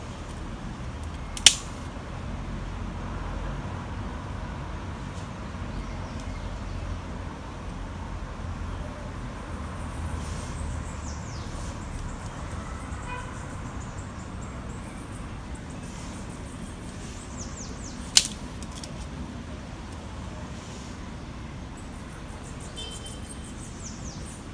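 Small twig campfire burning, with two sharp cracks, one about a second and a half in and one later on, over a steady low rumble.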